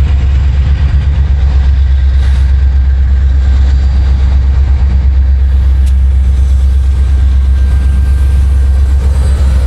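CN freight diesel locomotive's engine running loud and steady, a deep low rumble, the locomotive under full power.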